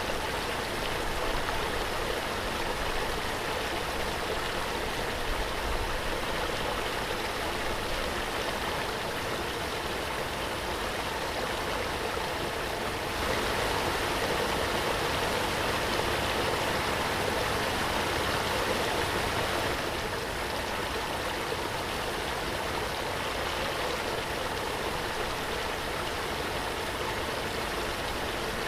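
Waterfall: a steady rush of falling water that swells a little about halfway through, then settles back.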